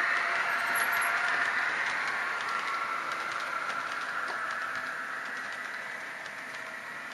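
Märklin H0 model train running on the track, with a steady whirring and rapid fine clicking from the wheels over the rail joints, fading steadily as it moves away.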